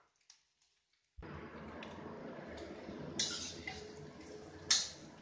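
Tempe strips frying in hot oil in a steel wok: a steady sizzle that starts abruptly about a second in. A metal spatula clinks against the wok twice as the tempe is stirred.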